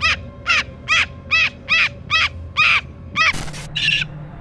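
A pet bird giving a rapid series of short, harsh, loud calls, about two a second and evenly spaced. Near the end the series breaks into one brief harsh squawk followed by a single further call.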